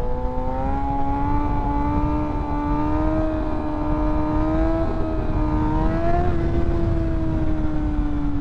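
Kawasaki ZX-6R 636 inline-four engine held at steady high revs, its pitch creeping slowly upward with a couple of small bumps, over heavy wind rush.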